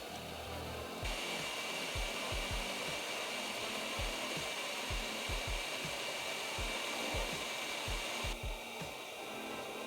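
A steady blowing hiss from an electric blower such as a hair dryer or heat gun. A brighter hiss joins it from about a second in and stops sharply near the end. Light low knocks are scattered throughout.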